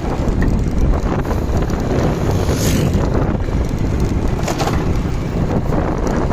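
Motorcycle riding, its engine running under heavy wind noise buffeting the microphone, with short hissing gusts about a third and two-thirds of the way through.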